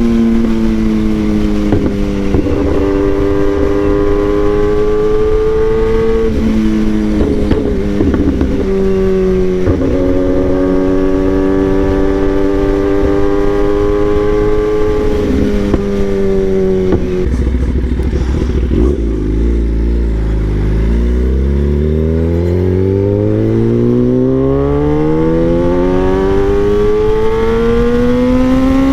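Kawasaki ZX-10R inline-four sport bike with an SC Project aftermarket exhaust, ridden at speed. The engine note holds fairly level with several brief breaks, drops low about seventeen seconds in, then rises steadily as the bike accelerates hard through the revs near the end.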